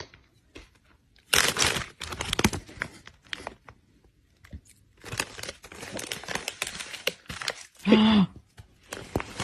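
Irregular spells of crinkling and tearing, like something being crumpled or ripped. A short pitched cry falls in pitch about eight seconds in.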